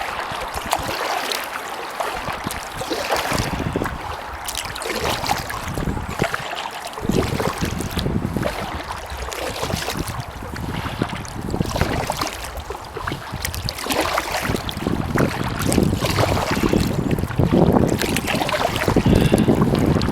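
Kayak paddle strokes splashing and dripping in the water, with wind buffeting the microphone; the wind rumble grows heavier over the last few seconds.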